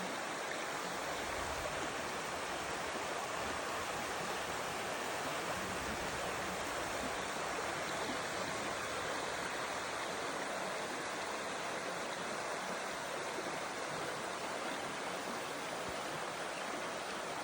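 Stream and small waterfall flowing, a steady, even rush of water with no change in level.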